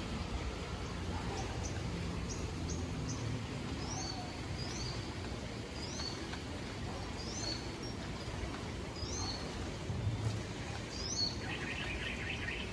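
Birds calling: a string of short, high, falling chirps repeated every half second to a second over a steady low rumble, with a brief rapid buzzing trill near the end.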